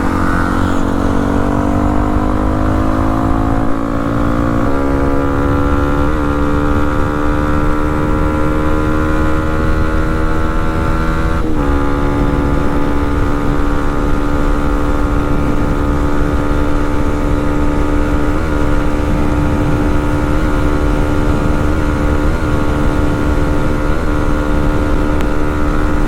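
Yamaha WR155R's single-cylinder engine at full throttle, pulling up to about 120 km/h top speed. The engine note climbs at first, breaks briefly near the middle, then holds high and steady, with wind noise underneath.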